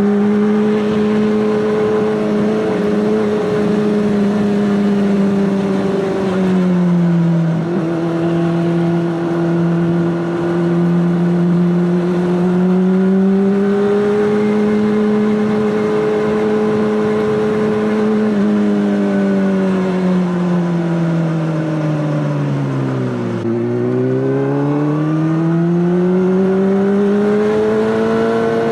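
Honda CBR600RR's inline-four engine running through an Akrapovic exhaust, holding a steady pitch, easing down about six seconds in, then falling off to its lowest pitch near the end and climbing smoothly back up.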